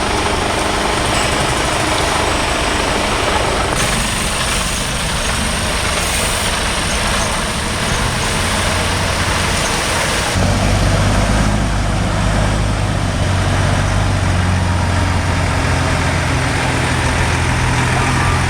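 Heavy diesel truck engines running as trucks roll past in a convoy. About ten seconds in, a close truck engine's steady low hum takes over and becomes the loudest sound.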